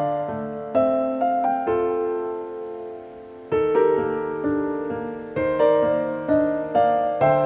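Background music: a gentle solo piano piece, notes struck one after another over sustained chords.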